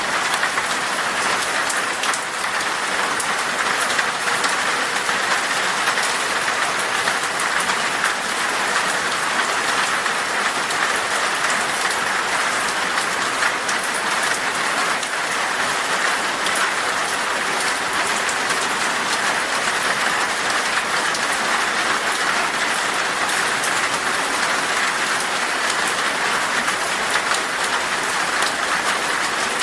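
Heavy rain falling on glass: a steady, dense hiss of many drops striking the pane, unchanging throughout.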